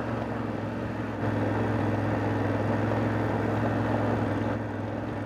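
Dual-sport motorcycle engine running steadily under way, with wind and road noise. It gets a little louder about a second in and eases off near the end.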